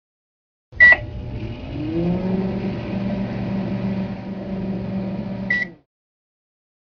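Microwave oven beeping as it starts, then running with a steady hum that rises in pitch as it spins up. About five seconds later it beeps again and the hum cuts off as it stops.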